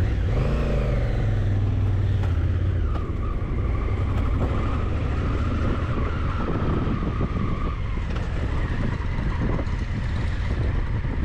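Motor vehicle engine running steadily, its pitch rising over the first few seconds, with a steady whine above it for several seconds midway.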